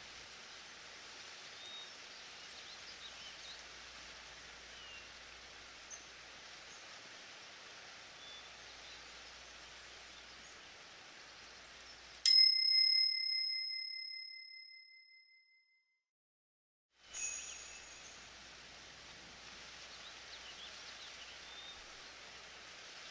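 Forest ambience with faint bird chirps is cut off about twelve seconds in by a single loud bell ring that fades over about three seconds into silence. About five seconds later a short click-like ring sounds and the forest ambience resumes. The ring marks the end of a one-minute timed set, and the click marks the start of the next set after the five-second rest.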